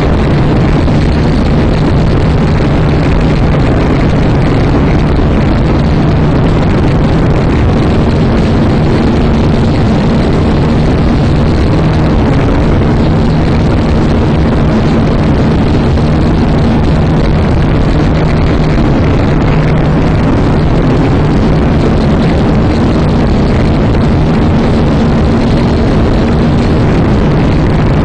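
Syma X5C-1 quadcopter's small electric motors and propellers whirring steadily, picked up close by its onboard camera, mixed with heavy wind noise on the microphone.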